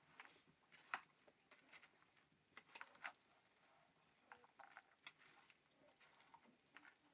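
Near silence with a few faint, scattered clicks and ticks, the sharpest about a second in.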